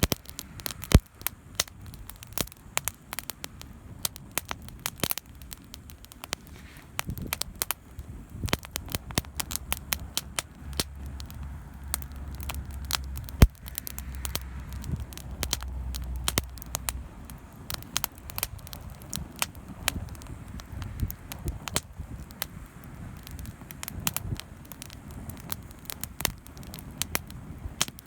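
Wood campfire crackling, with frequent irregular sharp snaps and pops. A low rumble sits underneath for several seconds in the middle.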